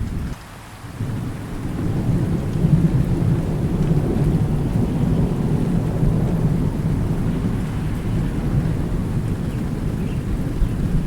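Thunder rumbling low and long over steady rain. The sound drops away briefly near the start, then the rumble swells over the next couple of seconds and rolls on.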